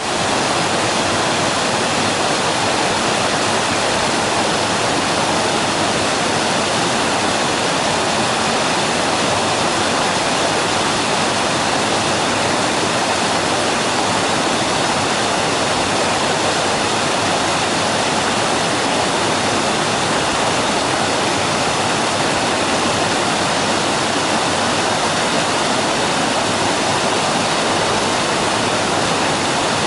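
Waterfall on a mountain stream: water falling and rushing in a loud, steady roar that stays even throughout.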